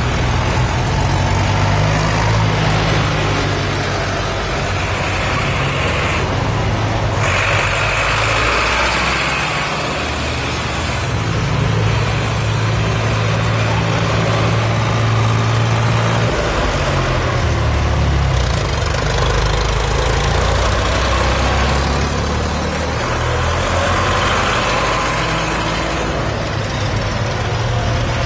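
Tractor engines running steadily, with the low engine note shifting in pitch several times.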